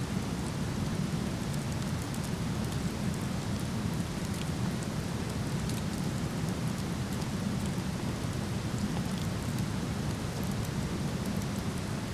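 Steady rush of a nearby waterfall, deepest in the low end, with faint scattered crackles from a wood campfire.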